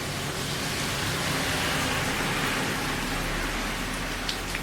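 Heavy rain falling: a steady hiss that swells a little in the middle.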